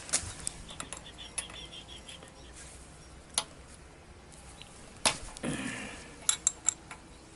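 Scattered small clicks and light metallic clinks, with a short scrape about five seconds in, from hand tools and motorcycle front-brake parts being handled during a strip-down.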